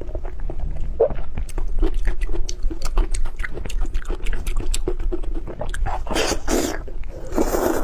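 An animal eating, with many quick clicks of chewing and biting and two louder noisy bursts near the end, over a steady low hum.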